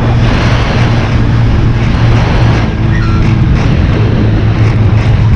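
A 250 cc motorcycle engine running at a steady speed, with a dense rushing noise over it.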